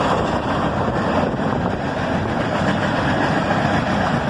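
CSX manifest freight train rolling past, a loud steady noise with no clear pitch.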